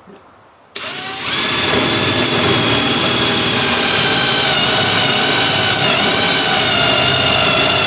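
Electric drill starting up and running steadily, boring a hole through a floor plate, with a slight dip in speed partway through as it bites.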